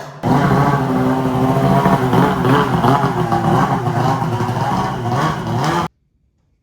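Two-stroke snowmobile engine running, its pitch wavering a little. It cuts off abruptly about six seconds in.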